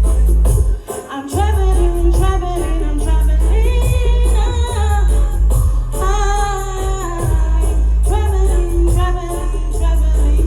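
Reggae dub tune played loud over a sound system: a heavy bass line, steady high hi-hat ticks and a woman's sung vocal. The bass drops out briefly about a second in.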